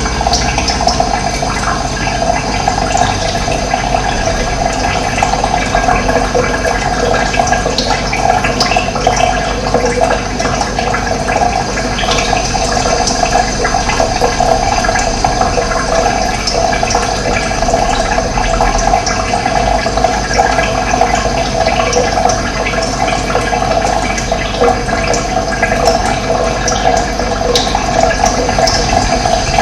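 Running water flowing steadily and loudly, an even rush that does not change.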